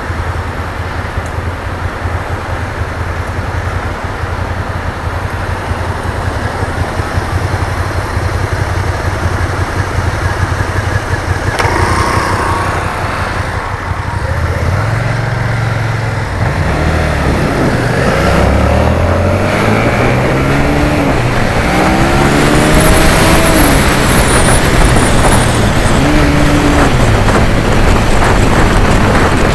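Suzuki SFV650's V-twin engine running under a riding motorcycle. It holds a steady pace for the first half. From about halfway it accelerates and changes gear again and again, its pitch climbing and dropping and the level rising, with wind rush near the end.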